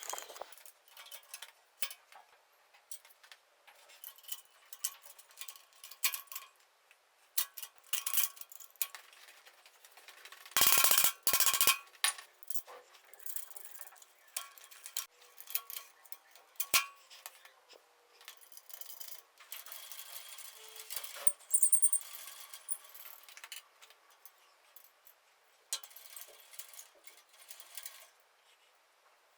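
Small metal parts and tools being handled during workshop assembly: irregular clinks, taps and knocks, with a louder cluster of knocks about eleven seconds in.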